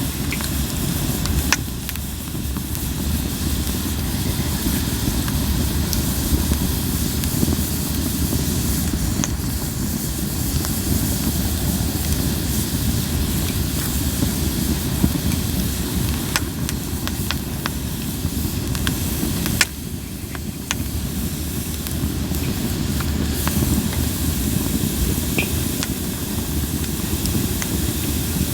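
Japanese linden (shinanoki) firewood burning in an open campfire: a steady hiss over a low rumble, with scattered sharp crackles and pops, a few of them close together around the middle.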